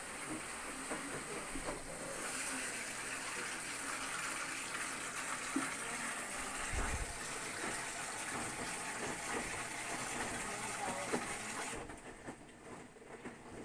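Whirlpool front-load washing machine taking in water: a steady hiss of water running into the machine, with scattered small knocks, that cuts off suddenly near the end.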